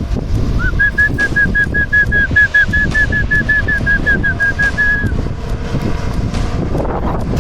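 Truck running along the road with a steady low rumble. For about four and a half seconds a rapid string of short high chirps, about five a second, sounds over it.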